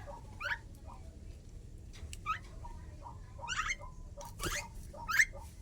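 Pet starling calling: a series of about five short, sharp rising chirps and whistles, with softer short notes between them, the loudest call near the end.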